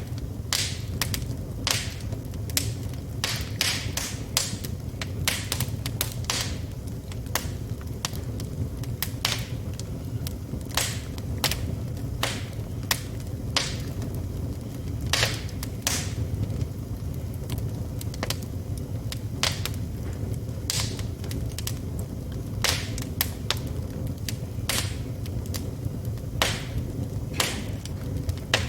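Wood logs burning in a fireplace: irregular sharp crackles and pops, often several close together, over a steady low rumble of the flames.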